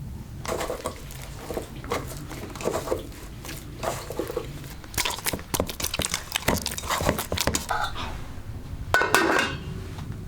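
Kitchen work sounds: irregular knocks, clicks and clinks of utensils and dishes being handled, with a longer scraping or rustling noise about nine seconds in.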